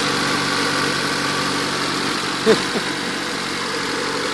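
Turbocharged Honda D16Z6 1.6-litre four-cylinder engine idling steadily. The engine has really bad blowby, which the owner assumes comes from worn piston rings.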